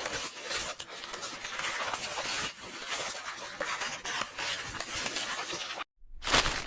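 Paper book pages rustling and turning in a continuous crackly stream. Near the end it cuts out for a moment, then a loud, sharp rip of tearing paper.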